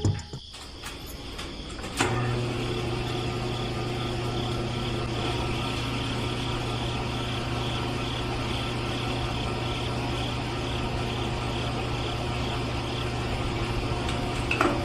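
A small motor starts with a click about two seconds in, then runs with a steady, even hum.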